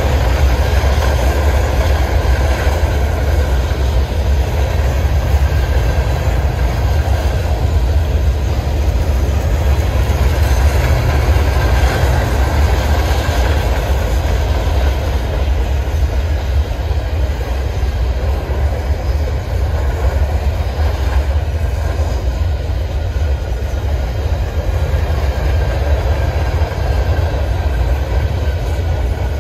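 Freight train of covered grain hopper cars rolling past at a steady speed: steel wheels running on the rails in a continuous deep rumble that holds level with no break.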